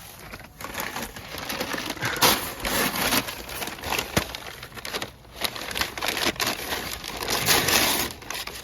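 Newspaper being crumpled and crinkled to start a grill fire, an irregular run of crackling and rustling.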